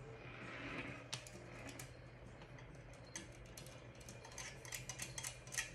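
Light, sharp clicks and ticks, a few at first and then coming several a second near the end, over a faint steady low hum.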